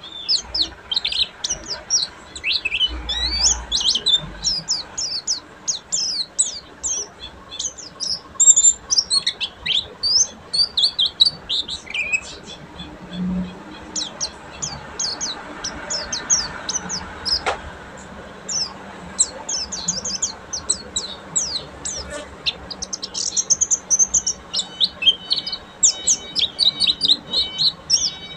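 Pleci white-eye singing in its rapid 'ngeriwik' twitter: a dense run of quick, high, sharply sweeping chirps, with a short lull about halfway through before it picks up again, busier than ever, near the end.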